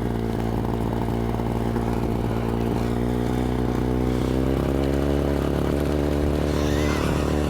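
Sparta moped-bicycle's built-in 30cc Sachs two-stroke engine running steadily. Its pitch rises a little about halfway through as it picks up.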